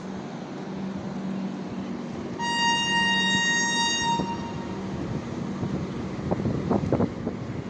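A train's horn sounds once, one steady high tone held about two seconds, over the steady low hum of the train. A few short knocks follow near the end.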